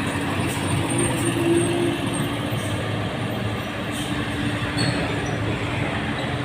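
Mitsubishi Fuso container trailer truck's diesel engine running steadily as it passes, with tyre and road noise.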